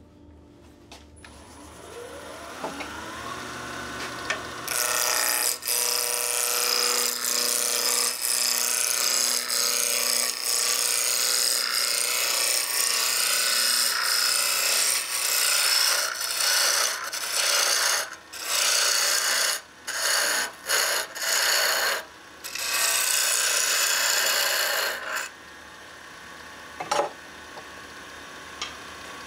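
Wood lathe speeding up, then a turning tool cutting into a spinning pine blank for about twenty seconds, lifted off the wood several times near the end. The lathe then runs on without cutting.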